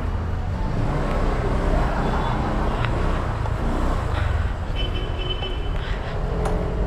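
Honda Click 125i scooter's single-cylinder engine running at low speed while the scooter creeps along, a steady low rumble.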